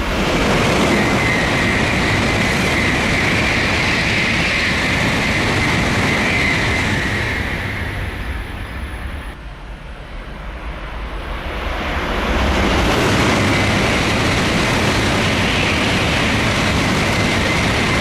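Tokaido Shinkansen bullet trains passing through a station at high speed: a loud rush with a steady high whine, twice — one pass from the start to about eight seconds in, a brief lull, then a second pass from about twelve seconds in.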